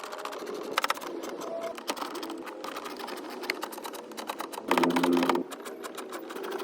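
Hand tools working on car bumper hardware: rapid mechanical clicking throughout, with a short loud buzz from a power driver about five seconds in.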